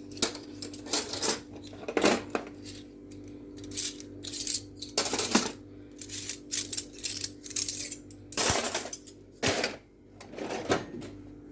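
Freshly washed dishes and spoons clinking and clattering as they are set down and put away, a dozen or so separate sharp clinks, over a steady low hum.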